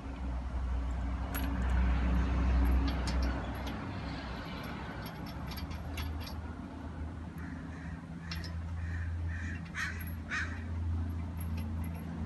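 Scattered metallic clicks and knocks from a car wheel being refitted and its lug nuts handled, over a steady low hum.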